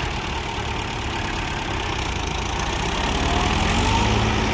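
Tractor engine running steadily at low revs, then picking up speed and getting louder about three seconds in.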